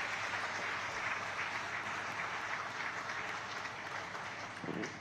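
Audience applauding, a steady clatter of many hands clapping that thins out near the end.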